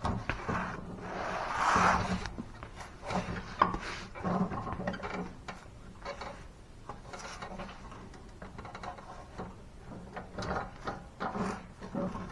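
Irregular clicks, clunks and scrapes of mower parts being handled and worked on by hand, with a longer scrape about a second in.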